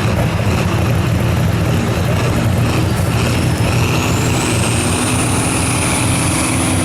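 A truck or tractor pull engine running loud and hard. A high whine rises about halfway through and then holds steady over the engine.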